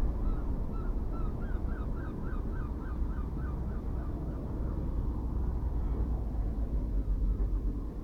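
A bird calling in a quick series of about a dozen short, repeated notes, roughly four a second, that die away after about three seconds, over a steady low rumble.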